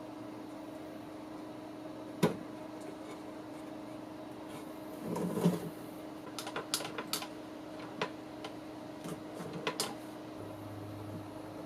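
Small hardware being handled: a scatter of light clicks and clatter, with a brief rustle about five seconds in and a quick run of clicks a second later. A steady electrical hum runs underneath.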